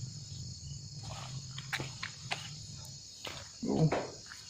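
Crickets chirring steadily at night, with scattered footsteps and a brief louder sound a little before the end.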